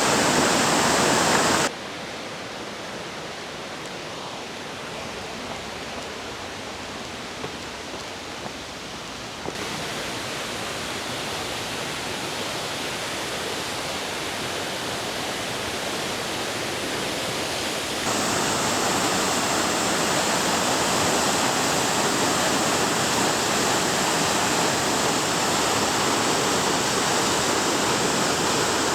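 Waterfall's steady rush of falling water. It drops abruptly in level about two seconds in, then steps up again near ten seconds and again around eighteen seconds.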